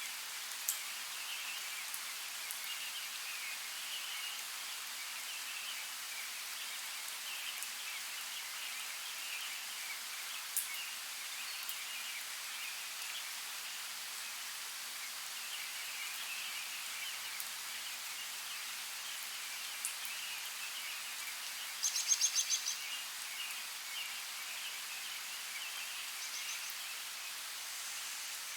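Forest ambience: a steady hiss of running water with a constant faint chirping of birds or insects and a few sharp clicks. About three quarters of the way through comes a brief burst of rapid, loud bird calls.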